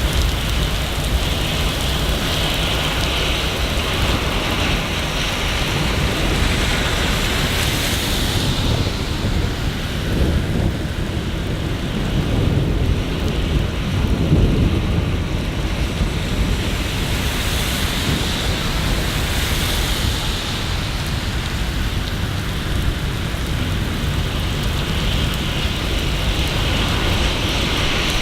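Steady rain on city surfaces with a constant hiss. About a third of the way through, a low rumble swells for several seconds and then fades.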